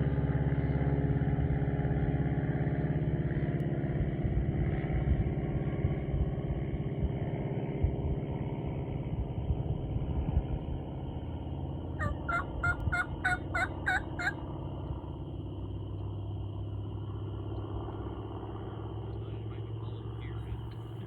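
Vehicle engine running steadily. About twelve seconds in, a quick run of about eight turkey notes lasts some two seconds.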